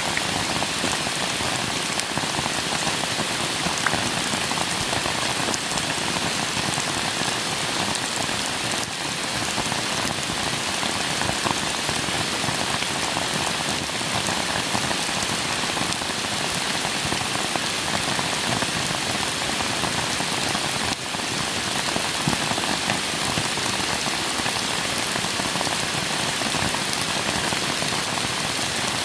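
Steady rain falling, a dense even patter of drops with occasional sharper single drop ticks.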